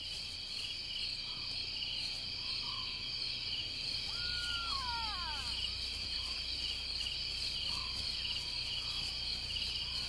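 Night chorus of crickets trilling steadily, with a single short falling call about four seconds in.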